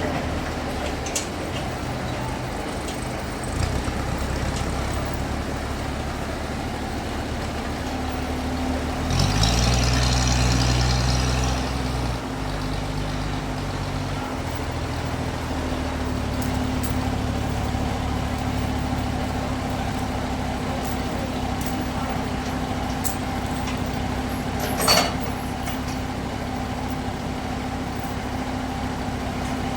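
Bandsaw sawmill machinery running with a steady low engine drone and hum. A louder stretch with hissing comes about nine seconds in, and one short sharp noise comes near the end.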